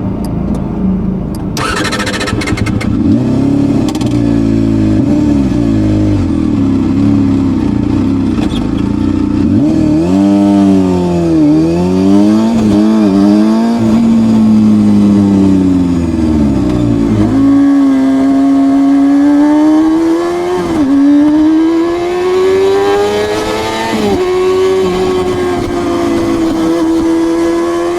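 Honda CBR250RR MC22's inline-four engine and exhaust under way. The engine pitch rises and falls repeatedly: several quick revs up and down in the middle, then long climbs each broken by a short dip as it shifts up through the gears.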